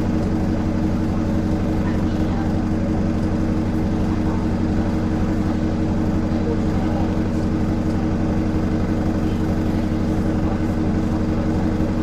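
Bus engine running at steady revs, a constant low drone heard from inside the bus.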